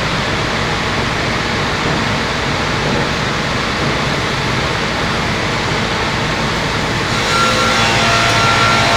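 Multi-blade circular sawmill running with a loud, steady roar. About seven seconds in a steady high whine joins and the sound grows a little louder.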